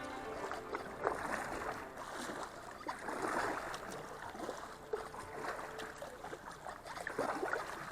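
Kayak paddle strokes splashing and dripping in river water, in uneven surges about once a second.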